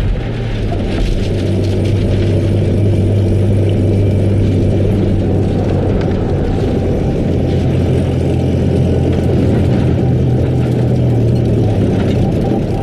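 Steady low rumble of an engine running, with a constant hum.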